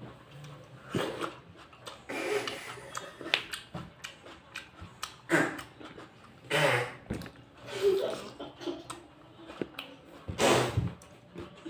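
A person biting into and chewing raw tomato, close to the microphone, in short bursts every second or two.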